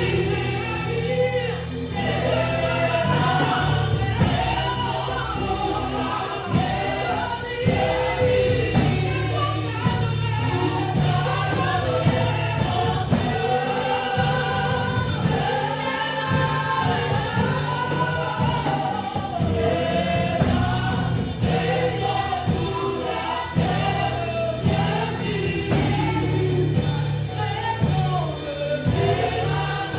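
Gospel worship song sung by a group of voices, like a choir, over a band with steady bass and drums.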